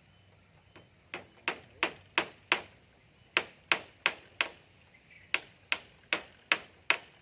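Hammer driving nails into the coop's bamboo frame: sharp, ringing strikes at about three a second, in runs of four to six blows with short pauses between.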